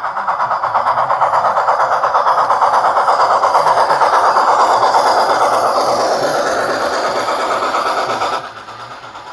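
Model train running on its track close by: a fast, even clatter of about seven beats a second that swells and then drops off abruptly about eight seconds in.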